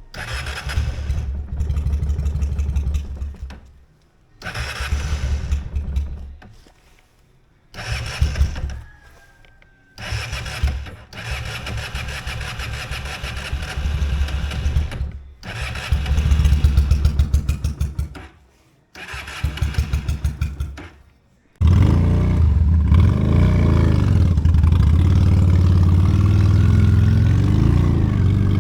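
Honda Steed V-twin motorcycle cranked on its electric starter in six separate tries of a few seconds each, before the engine catches about 22 seconds in and runs steadily.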